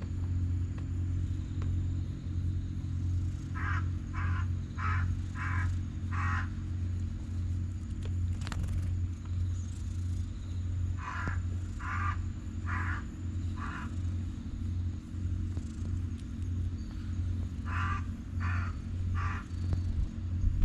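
Crows cawing in three runs of short, repeated caws: five, then four, then three. Under them runs a loud, steady low machine hum with a fast pulse, like an idling engine.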